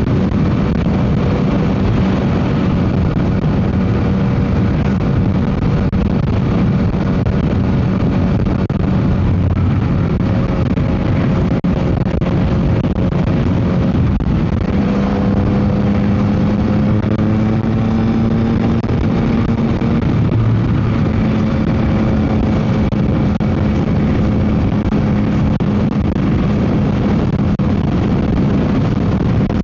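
Yamaha MT-09 SP's inline three-cylinder engine running under way through an aftermarket Dominator GP exhaust, its note holding fairly steady with small shifts in pitch, under heavy wind noise on the microphone.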